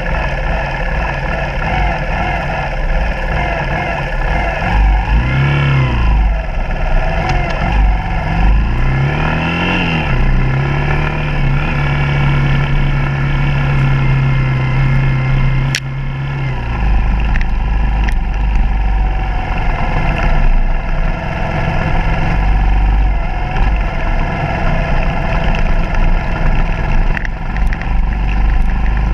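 Suzuki DR200's single-cylinder four-stroke engine riding along a dirt trail, rising and falling with the throttle, then held at a steady pitch for several seconds before dropping back to a low rumble about halfway through.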